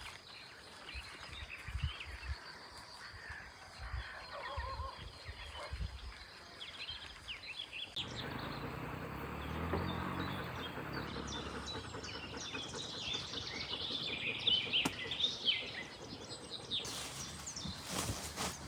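Songbirds chirping and singing in short, overlapping calls, over a steady outdoor background. About eight seconds in the background changes abruptly and a low rumble comes in for a few seconds, after which the birdsong grows busier.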